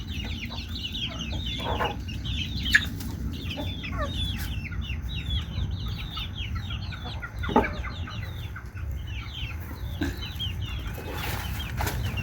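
A flock of chicks peeping continuously, many quick falling cheeps overlapping, with a few louder single calls from the fowl now and then.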